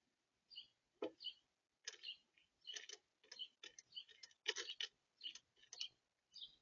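Birds at a feeder making a run of faint, irregular ticks and taps, about two or three a second, loudest a little past the middle.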